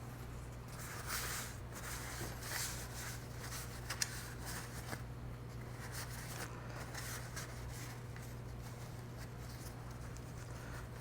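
Irregular light rubbing and scraping of the disco light's housing parts being handled and cleaned, with one sharp click about four seconds in, over a steady low hum.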